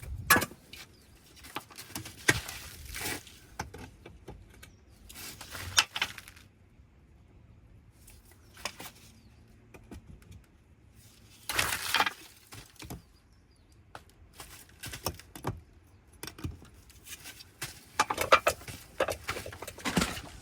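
Bricklaying work: scattered scrapes and knocks of a steel trowel and bricks as replacement bricks are set into mortar in the wall, coming in short clusters with quieter gaps between.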